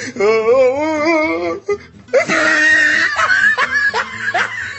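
People's voices: a long, wavering drawn-out cry, then from about two seconds in a louder mix of laughing and shouting with a rushing hiss underneath.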